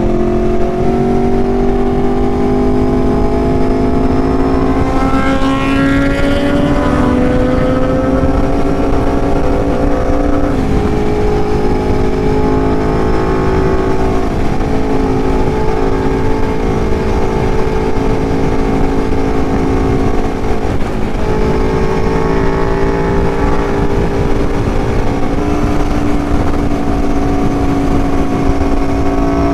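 Aprilia Tuono motorcycle engine running at road speed under a rider, its note drifting up and down with a couple of sudden shifts in pitch, over steady wind rush.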